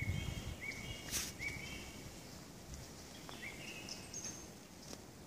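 Small birds calling in woodland: short repeated chirps, each a quick upward slide into a brief held note, with a few higher, thinner notes later. A low rumble on the microphone fades away in the first second.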